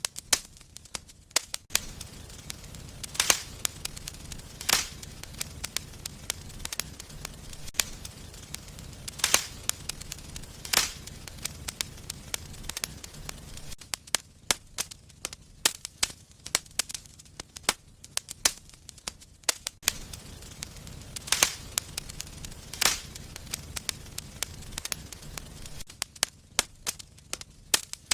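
Wood fire burning in a fireplace, crackling with many small snaps and a few louder, sharp pops at irregular intervals. A low rumble of the fire runs under the crackle for stretches and fades out in between.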